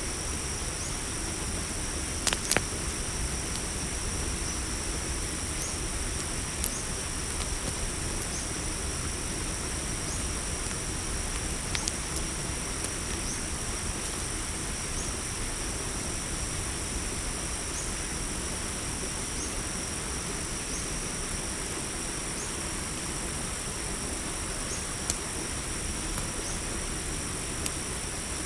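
Steady high-pitched cricket chorus over a low hiss, with a few sharp pops from a crackling campfire, two close together a couple of seconds in and others scattered later.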